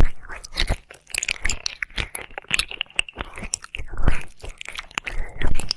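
Close-miked wet mouth sounds of ear licking: irregular lip smacks, tongue clicks and slurps in quick succession.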